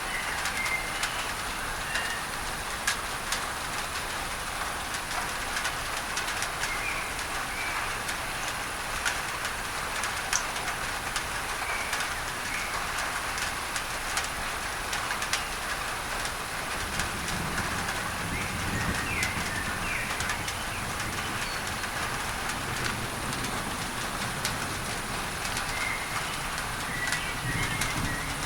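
Steady rain on a tin roof blended with a hiss of added masking noise, with scattered drop ticks and short bird chirps. A low rumble of distant thunder comes in a little over halfway through.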